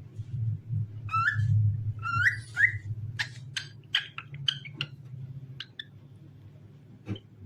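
Cockatiel whistling: a few rising whistled notes in the first three seconds, then a run of quick, sharp chirps that thins out past the middle. A steady low hum lies underneath.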